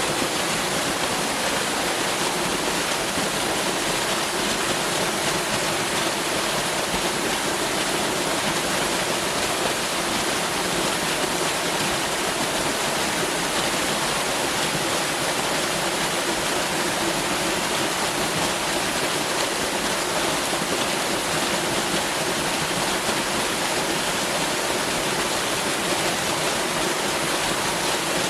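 Waterfall: water falling and splashing in a steady, unbroken rush with no variation.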